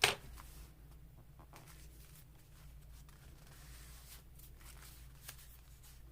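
Paper and craft materials being handled on a work surface: one sharp tap at the start, then faint scattered rustles and light taps, over a low steady hum.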